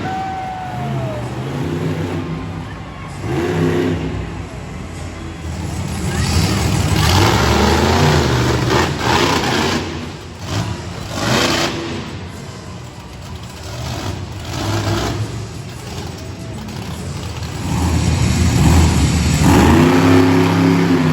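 Monster truck engine revving hard in repeated surges, its pitch climbing and dropping, loudest near the end.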